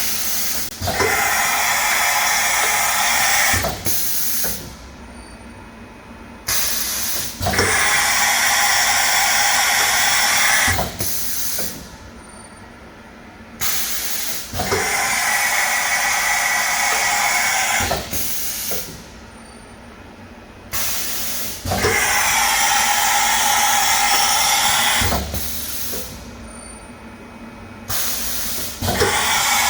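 Milltronics RH33 CNC mill running a repeating cycle: spells of loud hissing about four seconds long, each starting and stopping with a knock, come back about every seven seconds with quieter running between.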